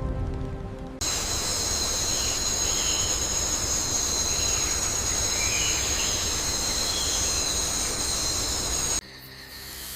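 Insect chorus: several steady, high-pitched trills held together over a hiss, with fainter short calls rising and falling beneath them. It cuts in suddenly about a second in, as music fades out, and cuts off suddenly near the end.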